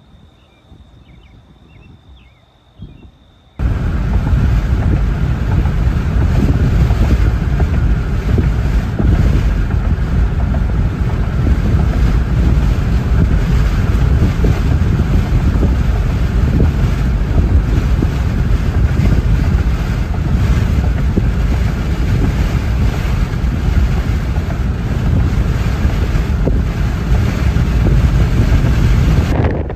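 Strong thunderstorm wind buffeting the microphone, a loud, even rush heaviest in the lows. It starts suddenly about three and a half seconds in and cuts off just before the end.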